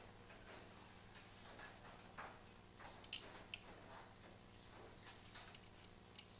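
Faint scattered clicks and light taps, the sharpest two about halfway through, half a second apart, and one near the end, with soft scuffing between them, over near silence.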